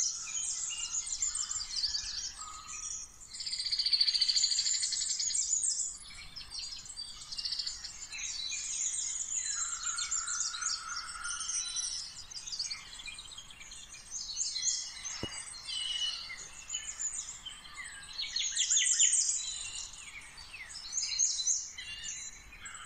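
Several small birds chirping and twittering in a dense, continuous chorus, louder about three seconds in and again near the end.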